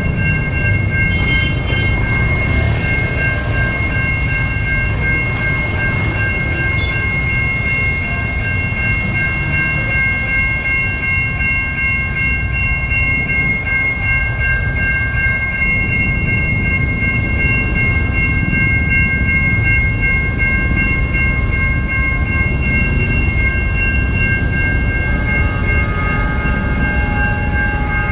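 A railway level-crossing warning alarm sounds a steady electronic multi-tone signal while a train passes with a continuous low rumble. A few further tones join in near the end.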